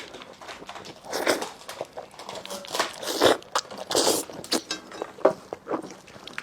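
Close-up eating sounds of braised lamb chops being bitten and chewed. About five crunchy bites come at irregular intervals, with small clicks and wet chewing between them.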